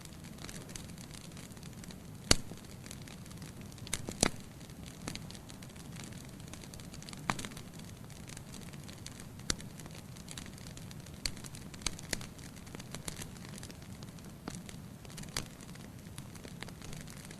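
Wood fire burning in a fireplace: a steady low rumble of flame with scattered sharp crackles and pops of burning logs, the loudest pops about two and four seconds in.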